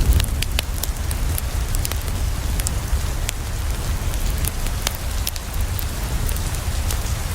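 Steady rain falling on a window, with a constant low rumble underneath, and scattered sharp crackles and pops from a wood fire.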